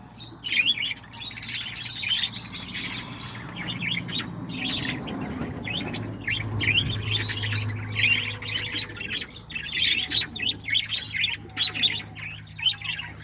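A flock of parakeets chattering, with a dense run of quick, high chirps. A low steady hum sits underneath.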